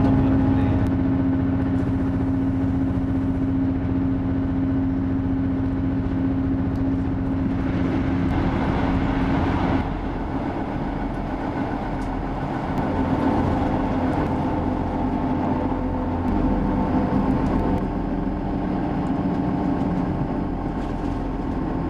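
Cab-less saloon of a moving Class 158 diesel multiple unit: the underfloor diesel engine drones steadily over the rumble of the wheels on the rails. The engine note changes about halfway through.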